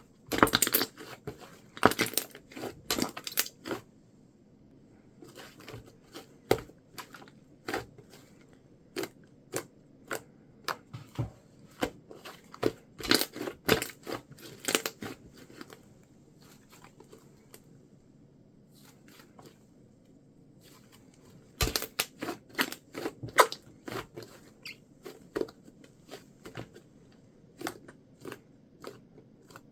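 Gray slime being pressed and worked by hand, giving clusters of sharp clicking and crackling pops, with quieter pauses between the bursts.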